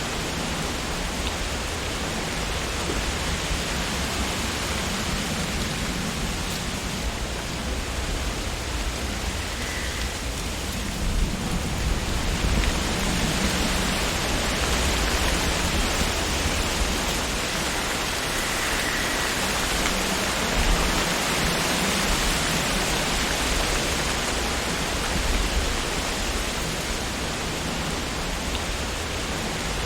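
Wind blowing through tree leaves: a steady rustling hiss that swells about twelve seconds in and eases a little near the end.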